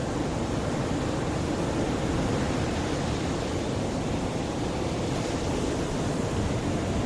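Sea waves, a steady rushing wash with no single wave break standing out.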